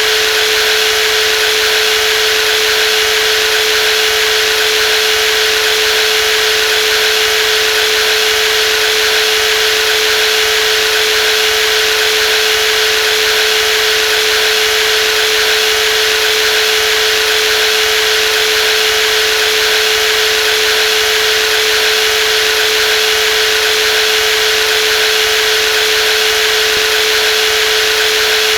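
Brushless jigsaw running steadily: a constant motor hum with one steady mid-pitched tone over a hiss, with no change in speed.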